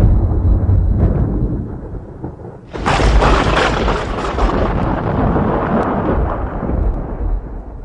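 Thunder: a deep rolling rumble that fades, then a sudden sharp thunderclap about three seconds in that rolls on and slowly dies away.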